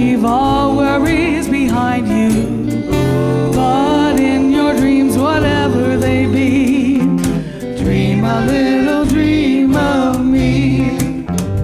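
Live band music without words: bass and drums under a wavering lead melody line, with a short dip about seven and a half seconds in.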